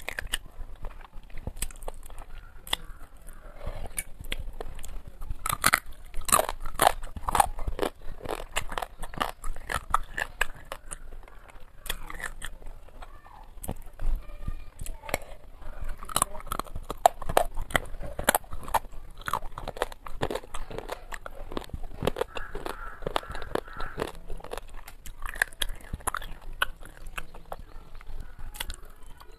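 Close-miked eating sounds: chewing fried fish with many sharp, wet lip smacks and mouth clicks, and fingers being sucked clean.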